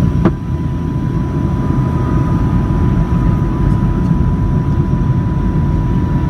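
Boeing 757-200 cabin noise: a steady low rumble of engines and airflow, with a thin steady whine above it and a single short knock about a quarter second in.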